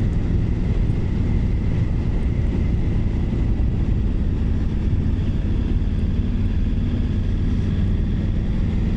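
Triumph Tiger 900 Rally Pro's three-cylinder engine running at a steady pace while riding, mixed with wind and road noise on the microphone.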